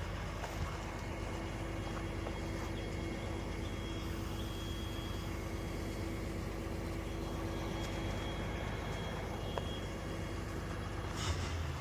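Truck engine running steadily during a winch pull on a stuck tractor, with a faint steady whine through the middle of it.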